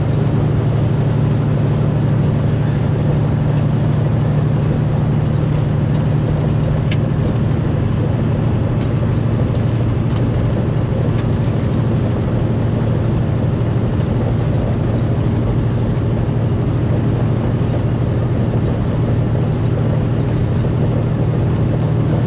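Steady drone of a semi truck's diesel engine and road noise heard from inside the cab while cruising down the highway, a low hum that holds even throughout.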